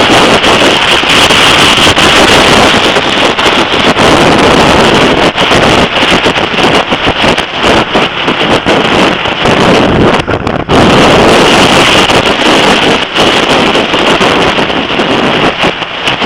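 Heavy wind noise buffeting the microphone of an action camera riding on a Suzuki GSX-R motorcycle at speed, with engine and road noise mixed in. It eases briefly about ten seconds in.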